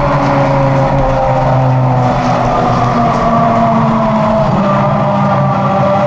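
Cosworth CR-6 3.0-litre V10 of a 2004 Jaguar R5 Formula 1 car running steadily and loud, its note sinking slowly.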